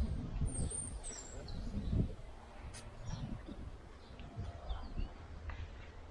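Small birds chirping with short, gliding calls now and then over a low rumble with some thuds, the loudest about two seconds in.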